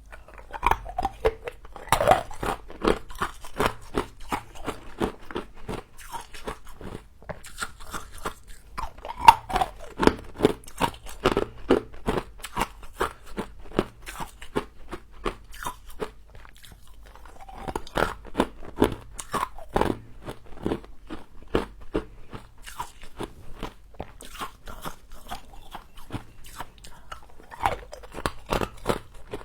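A person biting and chewing humidifier-grown frost close to the microphone: rapid crisp crunches in several bursts, with lighter chewing in between.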